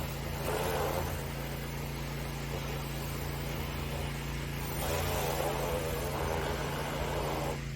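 Pressure washer running steadily while a dual turbo nozzle on an extension wand blasts water into a gutter. The hiss of the spray swells and eases as the nozzle moves.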